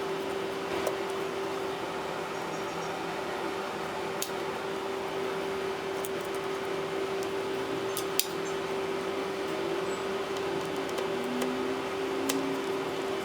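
A few sharp, light clicks of small tools against a tablet's plastic and glass parts during disassembly, spaced about four seconds apart, over a steady electrical hum and hiss.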